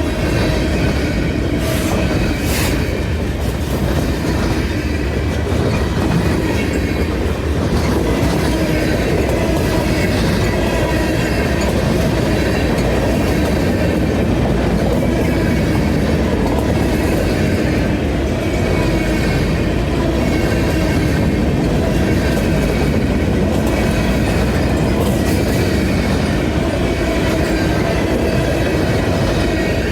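Freight train cars rolling past, steel wheels clacking over the rail joints, with some wheel squeal. The rumble is loud and steady throughout.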